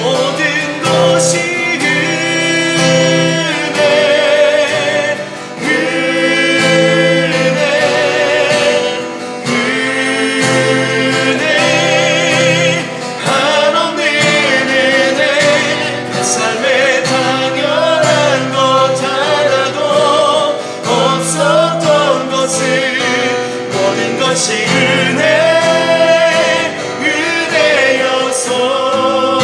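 A worship song sung with instrumental accompaniment, the voice holding long notes with vibrato.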